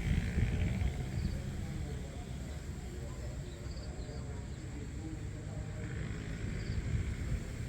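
Open-air ambience: a steady low rumble with faint, short, high bird chirps every couple of seconds.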